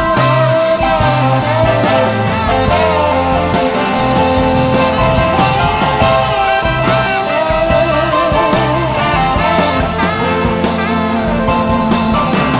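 Instrumental break of a soul-rock band song: electric guitar lines over bass and drums, with no singing.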